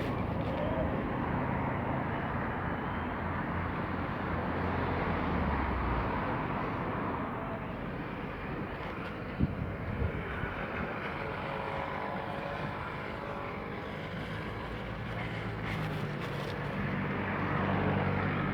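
Steady rumble of engine and road noise from motor traffic, with a single sharp click about nine seconds in.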